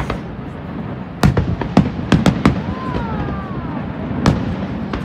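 Fireworks display bursting: a quick run of sharp bangs and cracks about a second in, then a single bang near the end, over a steady low rumble.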